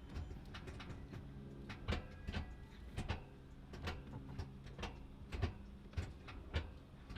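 Irregular sharp clicks and knocks, one or two a second, from controls and trim being handled inside a car, over a steady low hum.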